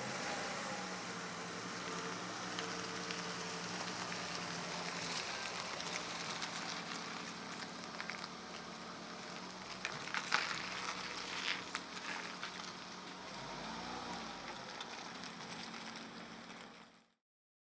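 Food frying in a pan, a steady sizzle with scattered crackles and pops that cuts off abruptly near the end.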